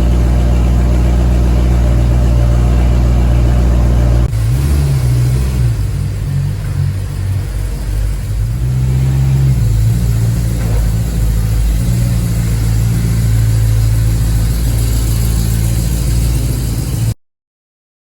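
BMW E92 M3's naturally aspirated 4.0-litre V8 running through a titanium exhaust: a steady engine note, then about four seconds in a sudden change to a note that rises and falls as the engine revs. The sound cuts off about a second before the end.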